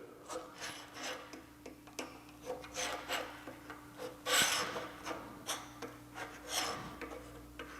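Caliper jaws dragged along the edge of a steel plate to scribe layout lines: a series of short, light scratches of metal on metal, the longest about four seconds in.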